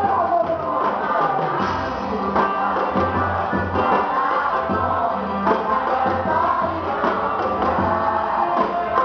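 Live band music with a singer over a steady beat.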